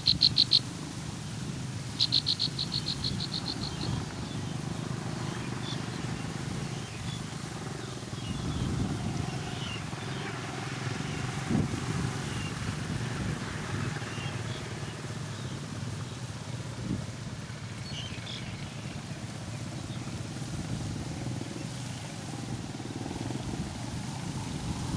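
Baby birds giving rapid high-pitched begging calls, in two quick bursts in the first four seconds, then a steady low background rumble with a few faint chirps.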